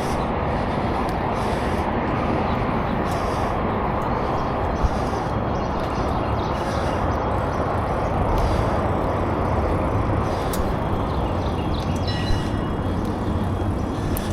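Steady rushing noise of a bicycle ride: wind over a chest-worn action camera's microphone mixed with tyre noise on pavement. Two small clicks sound, one about five seconds in and one near the end.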